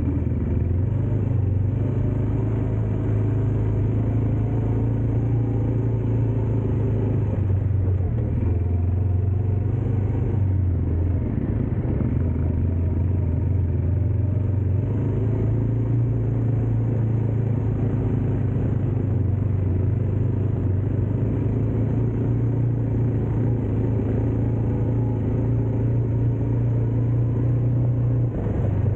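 Dirt bike engine running steadily while riding, a continuous low drone at a fairly even pitch that shifts slightly a few times.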